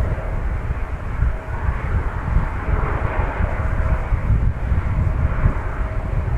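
Boeing 767-300 jet engines running with a steady rushing roar, over a gusty low rumble of wind on the microphone.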